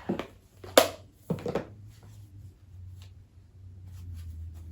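Oracle cards handled and set down on a table: a few sharp taps and thumps in the first second and a half, then only a low steady hum.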